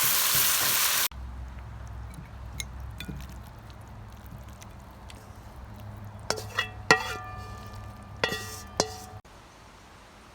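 Stir-fry sauce sizzling loudly in a hot pan for about a second, cutting off suddenly. Then a low hum with scattered small clicks, and a metal utensil striking the pan or a dish several times with ringing clinks.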